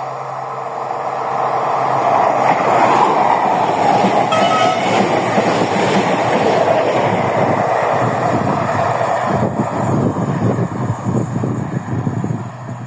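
TER regional train passing, its rumble building over the first couple of seconds. There is a short high tone about four seconds in, and rapid rhythmic wheel clicks in the second half.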